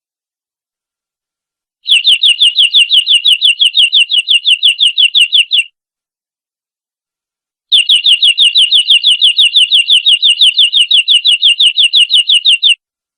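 Domestic canary singing two long rolling trills of rapidly repeated identical notes, about seven a second, each trill lasting four to five seconds with a pause of about two seconds between them.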